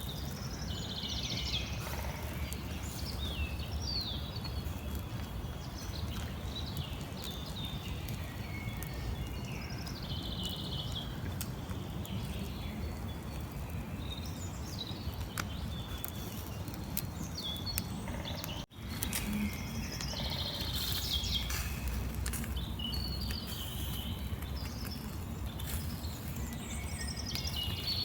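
Several small birds chirping and twittering in short repeated calls and trills, over a steady low rumble. The sound cuts out for an instant about two-thirds of the way through.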